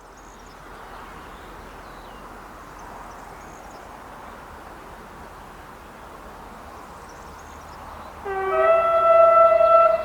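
A steady wash of noise, then about eight seconds in a train horn sounds a loud chord of several tones and holds it, most likely the horn of the ÖBB Class 2050 diesel locomotive.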